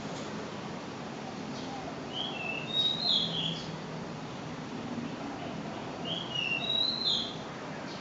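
A bird singing a short phrase of whistled notes twice, about four seconds apart, over the steady low hum of a ceiling fan running.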